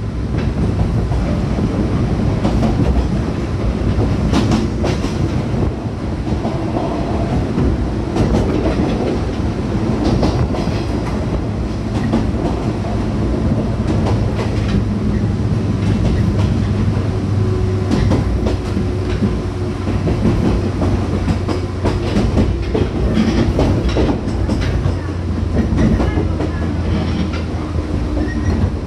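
A JR West 105 series electric train running at steady speed: a continuous low hum of motors and wheels, with repeated clicks as the wheels pass over rail joints.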